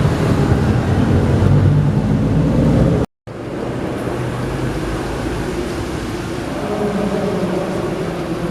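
Car engine running, then after a sudden cut about three seconds in, another car engine running steadily and a little quieter.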